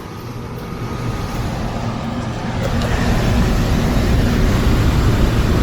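HVAC blower fan running on its newly replaced motor, moving air with a steady whoosh and a low rumble. It grows louder over the first few seconds, then holds steady: the replacement motor has started and the blower is working.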